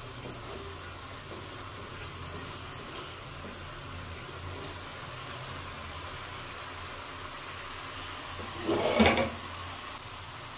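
Chicken masala sizzling steadily in a nonstick kadai while it is fried down on high heat and stirred with a spatula. A brief, louder noise about nine seconds in.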